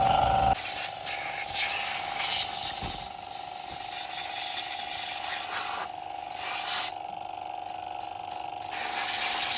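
A high-pressure spray hissing in spells over a steady hum, with a break of a second or two near the end.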